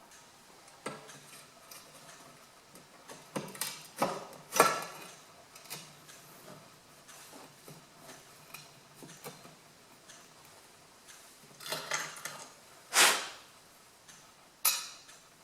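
Irregular taps, clicks and clunks of handling the metal and glass parts of a wood heater's door while a new fibreglass window seal is fitted, with the loudest knocks about four and a half and thirteen seconds in.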